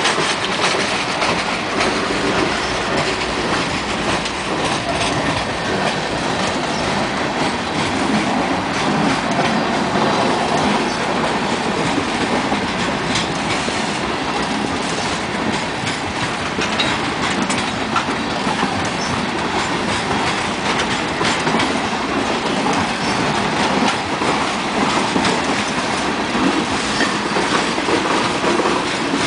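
Freight train boxcars rolling past close by: a steady rolling noise of wheels on rail, with scattered clicks and knocks throughout.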